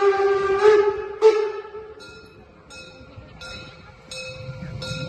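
A railcar's horn sounds one long steady note and ends with two short blasts about a second in. After it, only faint short high-pitched tones are left, repeating under a second apart.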